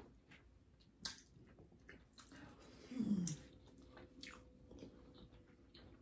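Quiet chewing and biting of people eating, with scattered small clicks and a short low falling hum about three seconds in.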